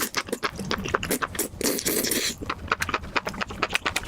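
Close-miked chewing of soft, spicy mushrooms: rapid wet smacking clicks, with a short hiss about a second and a half in.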